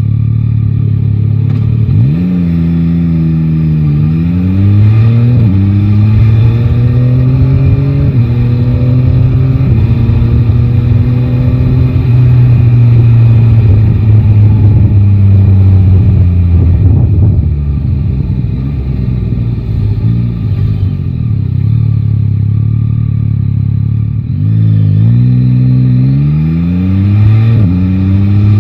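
Yamaha Tracer 9 GT's inline three-cylinder engine pulling away and shifting up through several gears, its pitch climbing and then dropping at each shift. It then holds and eases off toward a low, rough idle, and near the end accelerates through the gears again.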